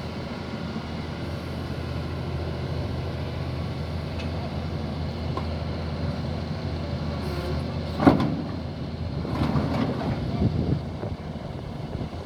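Doosan excavator's diesel engine running steadily, with a sharp loud bang about eight seconds in and then a stretch of creaking and scraping. The machine is being unloaded with a dead final drive on one track, which is tearing up the deck.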